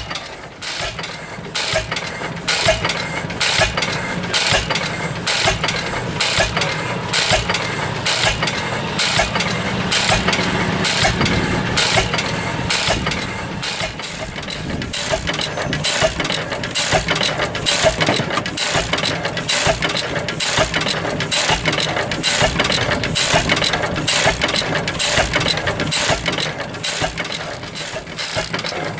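1915 International Titan 10 hp stationary engine running steadily, throttle-governed so it fires every cycle rather than hitting and missing. Its mechanism clatters in an even rhythm of sharp clicks over a low hum.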